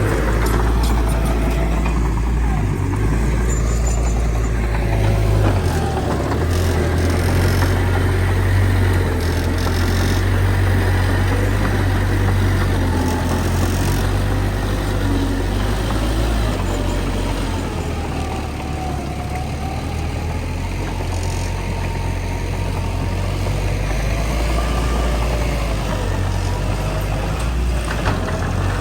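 Heavy diesel engine of earthmoving machinery running steadily with a deep rumble. The engine note shifts and rises and falls slightly as the load changes.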